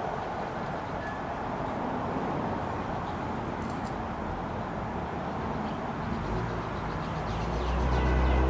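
Steady outdoor traffic noise, with a vehicle's low hum building and getting louder towards the end.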